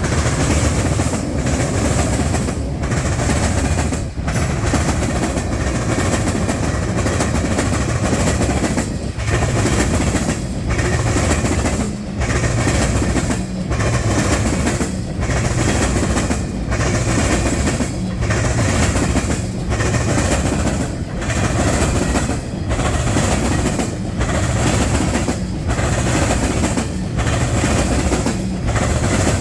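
Freight train cars rolling past close by: a loud, steady rumble and clatter of steel wheels on rail, pulsing in a regular rhythm about every second and a half as the cars go by.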